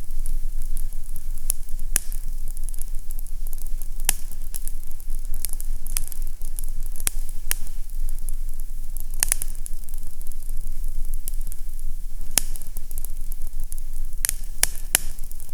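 Fireplace crackling: irregular sharp pops and snaps over a steady hiss, with a low hum underneath.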